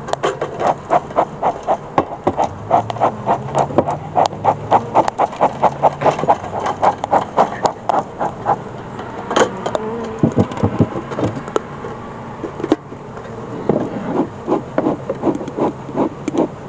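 A bee smoker's bellows pumped in quick puffs, about four a second, while honeybees buzz around the open hive. A sharp knock comes about nine seconds in, and a few duller knocks follow.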